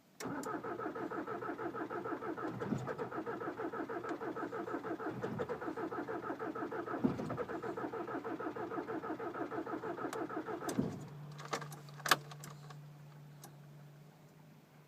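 A VW Jetta mk5's four-cylinder turbodiesel is being cranked by the starter in −25 °C cold. It turns over in a steady, even rhythm for about eleven seconds without catching, then the cranking stops. A steady low hum and a few clicks follow.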